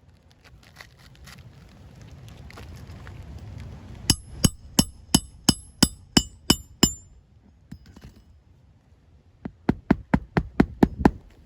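A hammer driving roofing nails by hand, two runs of sharp ringing blows: about nine blows starting about four seconds in, then after a pause about eight quicker ones near the end.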